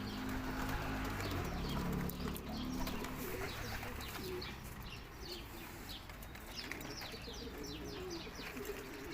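Domestic pigeons cooing. The low coos are strongest in the first three seconds, and from about three seconds on there is busy, rapid high-pitched chirping of other birds.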